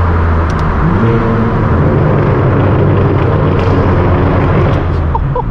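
Straight-piped BMW M4 F82's twin-turbo inline-six running under way with a loud, steady drone, rising briefly in pitch about two seconds in and easing off near the end.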